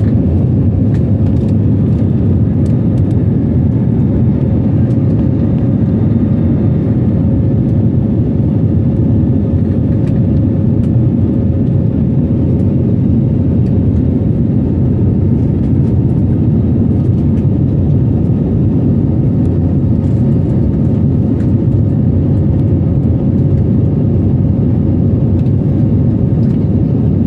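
Airliner engines and airflow during takeoff: a loud, steady low rumble with a faint constant hum above it.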